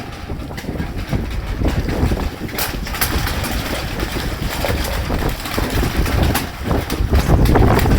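Strong wind gusting over the microphone: a heavy, uneven low rumble with crackling buffets, getting louder near the end.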